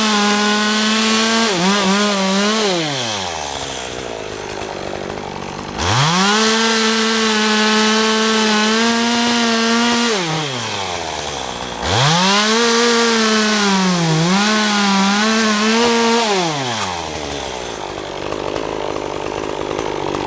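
Two-stroke chainsaw cutting up a downed oak: the engine is held at full throttle, drops to idle, and is revved up again for two more long cuts, its pitch sagging briefly in the middle of the last. It idles near the end and then cuts off.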